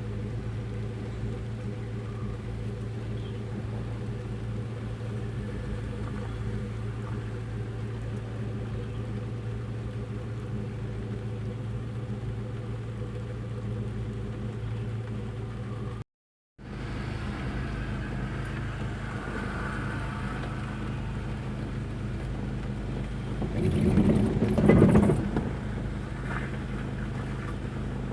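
Truck engine running steadily with an even low drone, swelling briefly louder and rougher near the end. The sound drops out for about half a second midway.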